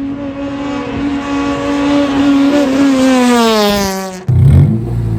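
Car engine held at high, steady revs for about three seconds, then its pitch falls away as the revs drop. It cuts off suddenly, and a lower, rougher engine note follows near the end.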